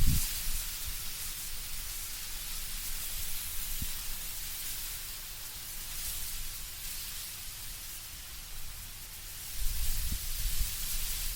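Wind in autumn trees, the leaves rustling as a steady hiss. Low rumbling gusts of wind on the microphone come at the very start and again near the end.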